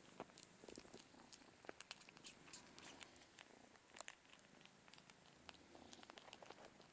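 Faint purring from a mother cat and her kitten as the kitten suckles, with many soft, irregular clicks and smacks from its mouth at the teat.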